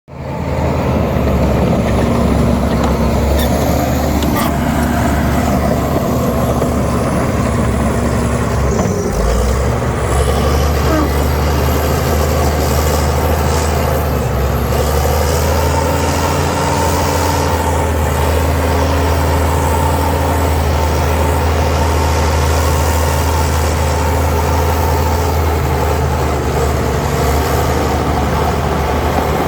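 Heavy diesel engine of an earthmoving machine running steadily under load, with a thin high whine wavering slowly in pitch above it.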